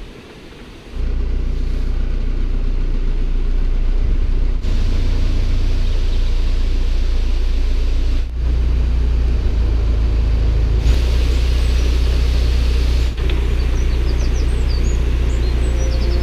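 Narrowboat diesel engine running steadily with a loud, low rumble that starts about a second in, broken by a few abrupt cuts.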